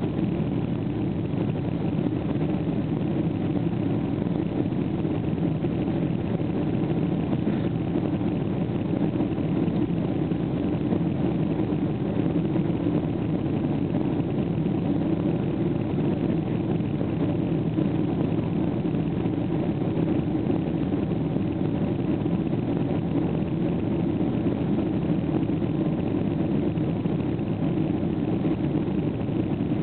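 Boeing 777-200 jet engines running steadily during takeoff, a constant dense rumble and roar with no change in level.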